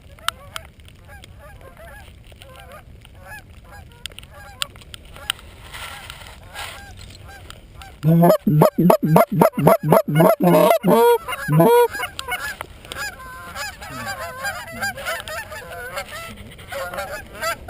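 Flock of geese honking as they come in. Scattered calls throughout, with a loud, rapid run of honks about eight seconds in that lasts some four seconds.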